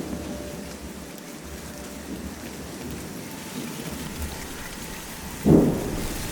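A steady, noisy rumble with a deep pulsing low end, broken by a sudden loud boom about five and a half seconds in.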